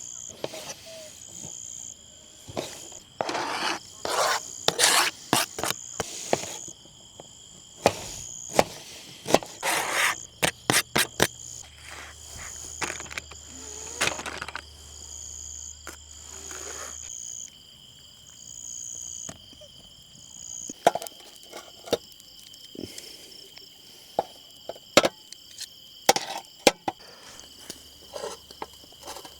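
Crickets chirping steadily, with a series of sharp knocks and clatters close by, several in quick succession about ten seconds in.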